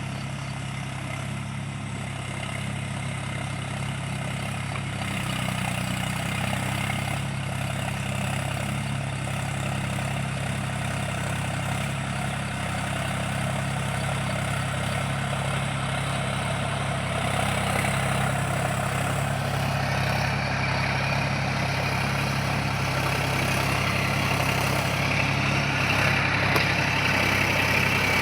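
Mahindra 275 DI tractor's three-cylinder diesel engine running steadily while ploughing, its hum growing gradually louder.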